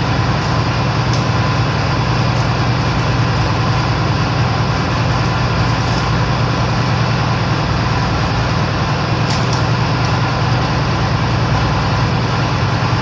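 Steady drone of a ship's machinery: a constant low hum with broad noise over it, and a few faint clicks.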